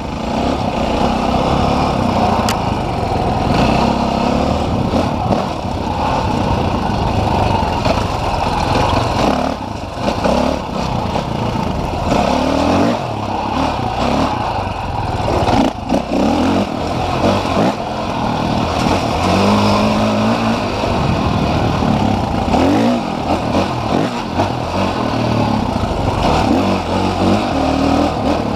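Dirt bike engines running and revving, the pitch rising and falling several times as the bikes are throttled up and back.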